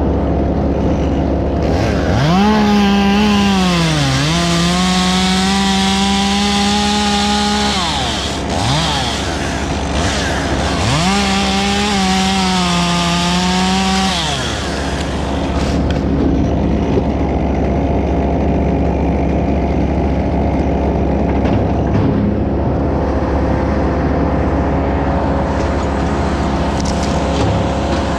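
Chainsaw run at full throttle in two cuts, the first about two seconds in and the second around eleven seconds, its pitch sagging as the chain bites into the wood and then recovering. Between and after the cuts a steady engine drone runs on underneath.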